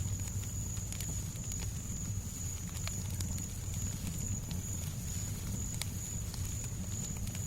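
Fireplace crackling: scattered sharp pops and snaps at irregular intervals over a steady low rumble and soft hiss, with a thin steady high-pitched tone.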